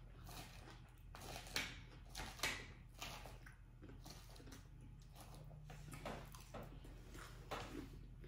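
Faint close-up chewing and crunching of a mouthful of lettuce salad, with a fork picking through the salad in a plastic tub. Two louder crunches come about one and a half and two and a half seconds in.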